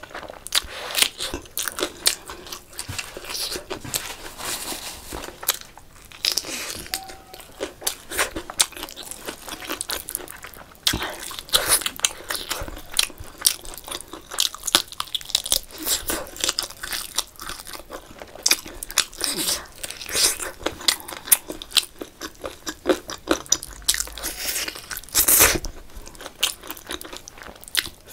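A person chewing and biting with many crisp crunches and wet mouth clicks while eating chicken leg pieces, curry rice and fresh green chillies by hand. One louder crunch comes about 25 seconds in.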